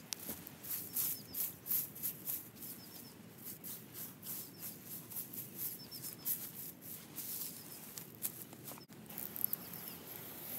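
Outdoor ambience: a small bird chirping in quick runs of three or four short notes, repeated every second or so, over an irregular dry crackling patter. The background changes abruptly about nine seconds in.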